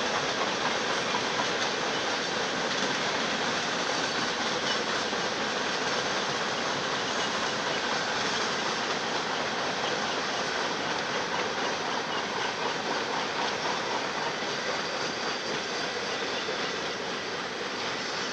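Freight cars of a Union Pacific manifest train rolling past, a steady rush of wheel and rail noise with faint clicking, easing slightly near the end.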